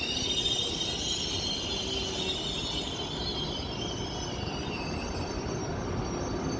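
A train's high-pitched metallic squeal, several tones at once that drift slowly down and fade out about five seconds in, over the low rumble of the train rolling.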